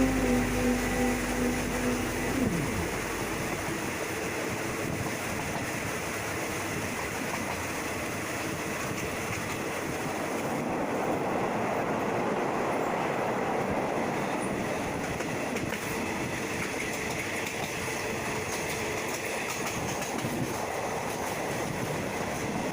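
A train running along the track: a steady rush of wheel and rail noise that swells a little midway. Music fades out in the first couple of seconds.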